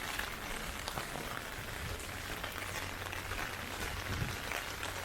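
Heavy typhoon rain falling steadily, with scattered sharp drop hits close by.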